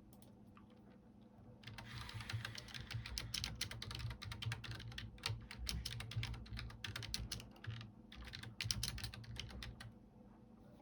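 Typing on a computer keyboard: a quick, steady run of key clicks that starts after a short quiet moment and stops shortly before the end.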